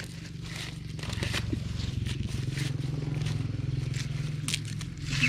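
A small engine running steadily, growing louder about a second in, with scraping and crackling of dry corn plants being handled.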